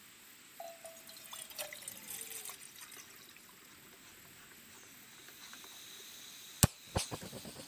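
Water trickling with small scattered ticks and clinks, then two sharp clicks close together near the end.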